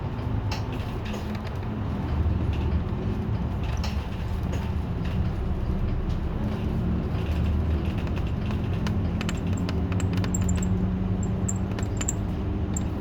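City bus driving, heard inside the cabin: a steady engine and road hum whose pitch shifts a little as the bus changes speed, with scattered light rattles and clicks from the cabin fittings.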